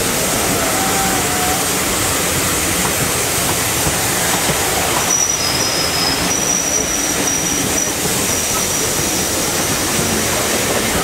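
Passenger carriages of a heritage steam railway train running, a steady rush of wheel and track noise, with thin high-pitched squeals from the running gear coming and going from about five seconds in.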